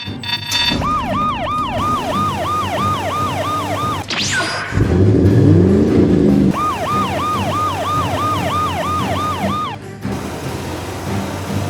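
Cartoon police siren sound effect: a fast yelping wail that sweeps up and down about four times a second, heard in two stretches with a louder low rumbling sweep between them, over background music.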